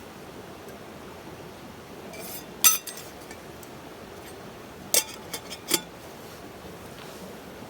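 Sharp clinks of cups and utensils being handled: one about two and a half seconds in, then a quick run of three or four a little after halfway, over a steady background hiss.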